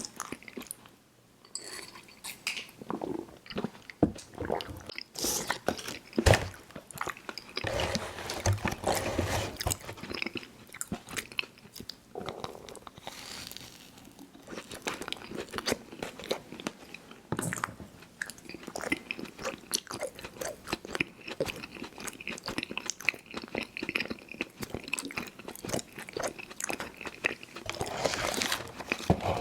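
Close-miked chewing of chewy fruit candy: big bites followed by sticky, wet mouth smacking, with a constant run of irregular clicks and crackles.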